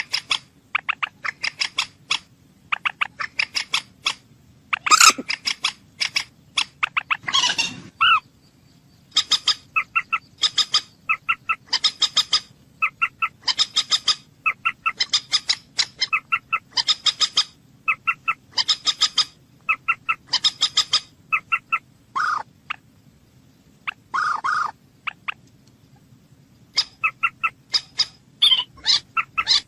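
Moorhen calling: bursts of rapid clucking notes repeated about once a second, with a couple of longer, harsher calls a few seconds in.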